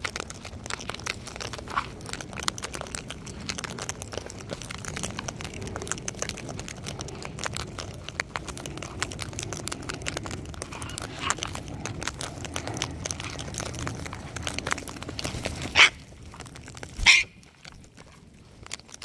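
Wild sulphur-crested cockatoos crunching seed with their beaks at close range, a steady patter of small clicks and cracks, then two loud, harsh screeches about a second apart near the end.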